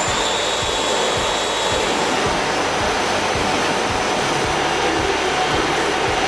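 Steady industrial machinery running in a plywood mill, a dense even noise with a faint hum and light low knocks repeating about three times a second.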